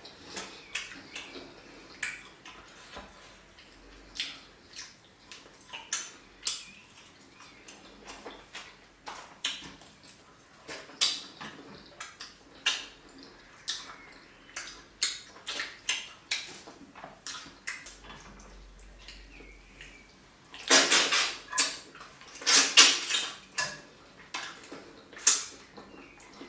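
Close-up eating sounds of fish pepper soup with pounded yam: irregular wet mouth clicks, smacks and chewing, several every few seconds. A louder run of wet slurping or chewing strokes comes about three quarters of the way in.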